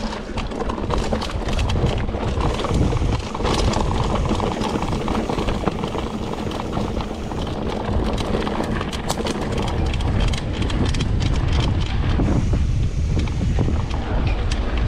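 Mountain bike ridden over a rough trail: steady wind rush on the microphone with constant clattering and rattling from the bike and tyres over the ground.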